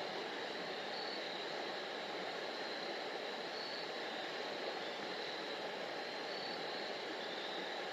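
Steady rushing of Rocky Fork creek's water over rock, with a faint high chirp every couple of seconds.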